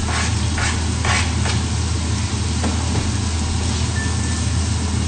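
Shrimp, mushrooms and chopped red bell pepper sizzling in a hot frying pan, with a few brief scrapes in the first second and a half as the pepper is tipped in off a chopping board, then stirred with a spatula. A steady low hum runs beneath.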